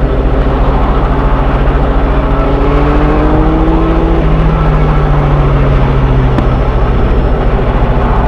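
Train engine running with a steady low, rapidly pulsing rumble; its tone climbs slowly for a couple of seconds, then steps and settles, with a single sharp click a little after six seconds.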